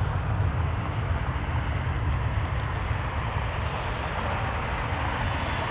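Jet engines of a Boeing 737-700 airliner running as a steady rush, with wind buffeting the microphone as a low rumble; the engine noise grows brighter toward the end.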